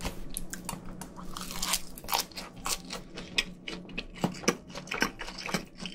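Close-miked chewing of a mouthful of multigrain rice wrapped in roasted seaweed (gim): irregular crunches, about two or three a second, over a faint steady low hum.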